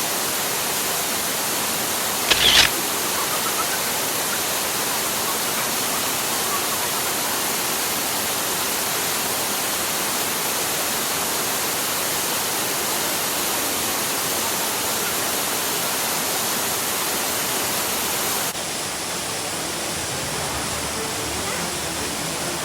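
Steady rushing of stream water and waterfalls. A short, louder burst comes about two seconds in, and the rush turns slightly quieter and duller near the end.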